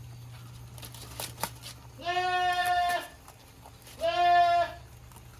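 A goat bleats twice, each call steady and about a second long, the second one louder. A few faint clicks come shortly before the first bleat.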